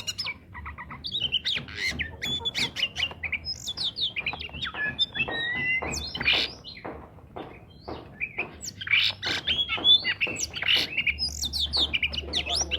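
Oriental magpie-robin in full song: a fast, unbroken run of varied chirps and short rising and falling whistles mixed with clicky notes.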